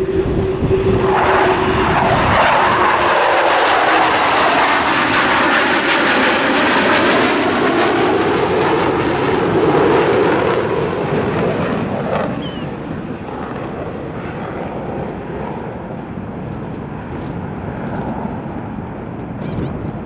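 Jet aircraft flying past: the engine noise builds and stays loud with a sweeping, shifting pitch, then drops off sharply about twelve seconds in, leaving fainter engine noise as it moves away.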